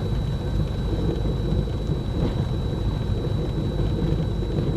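Cessna 310's twin piston engines running at low power while taxiing after landing, a steady low rumble, with a thin steady high whine above it.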